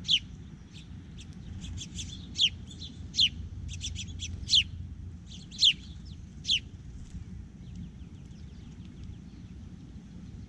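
Songbirds chirping at a feeder: a series of sharp, quick down-slurred chirps, six loud ones about a second apart over the first seven seconds with fainter chirps among them, then only faint chirping.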